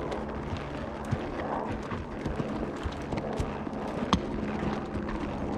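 Horse walking, its hooves clopping irregularly, with scattered clicks and knocks.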